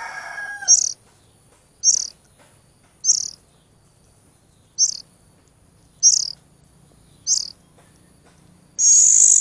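Oriental magpie-robin chicks giving short, high-pitched begging chirps about once every second, with a longer, louder call near the end: the hungry-chick calls that come with open-mouthed begging during hand-feeding.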